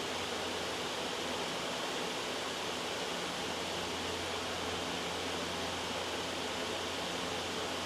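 Loud, steady white noise: an even hiss with no breaks.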